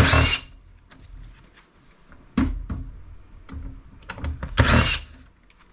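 Clatter of a desktop PC case being handled and taken apart: three louder scraping clunks, at the start, about two and a half seconds in and near five seconds, with light clicks and taps between.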